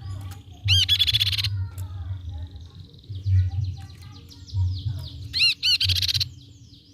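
Crescent-chested babbler (tepus pipi perak) calling: two loud bursts of rapid, high trilled notes, one about a second in and one near the end, with softer chirps between.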